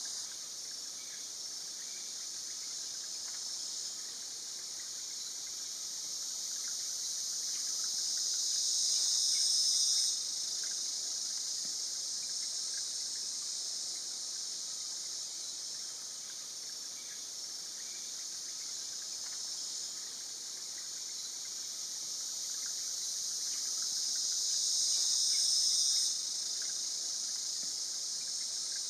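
Insect chorus: a dense, high-pitched drone that grows louder over several seconds and then drops off suddenly, twice, about ten seconds in and again near the end.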